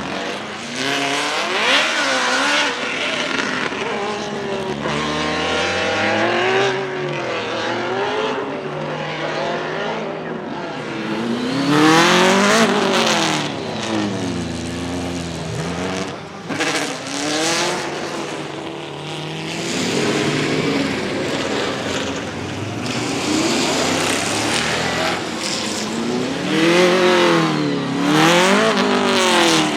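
Racing V8 of a BMW E36 hillclimb car, a Judd KV 675 3.4-litre, revving hard with its pitch climbing and dropping again and again through gear changes and braking. The loudest swells come about twelve seconds in and near the end.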